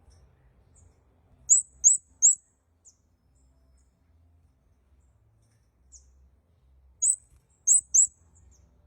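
Kemade kepala merah (red-headed kemade) calling: short, very high, sharp chirps in two quick runs of three, one early and one near the end, with a few faint single chirps between.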